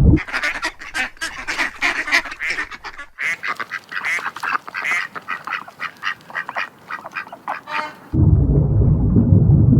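Ducks quacking, a rapid run of short, quick calls, with a brief break about three seconds in. Near the end a louder, deeper animal sound takes over.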